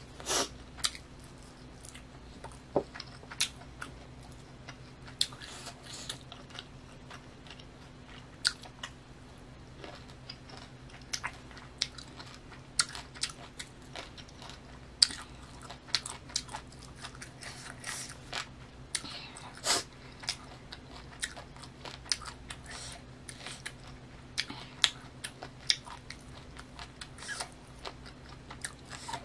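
Close-miked chewing of grilled chicken, with irregular wet mouth clicks and the odd crunch, over a faint steady low hum.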